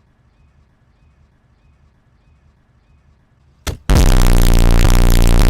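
A faint low hum with soft ticks about twice a second, then, near the end, a sudden, extremely loud, distorted pitched blast: an ear-splitting meme sound effect that cuts off abruptly.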